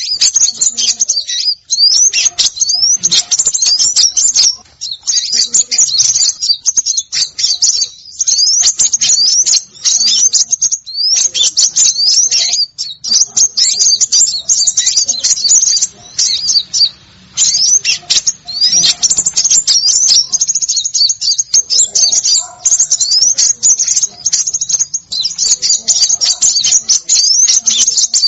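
Small songbirds calling in a dense, rapid string of high-pitched rising chirps, with a few short pauses: a bird-luring (pikat) call recording.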